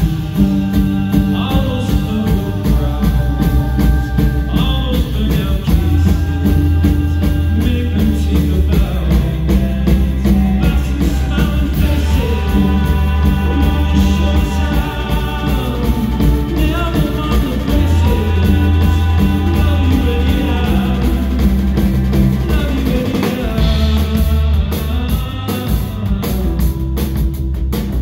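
Live band playing a song: singing over drums and guitar, with a steady bass underneath and long held melodic notes.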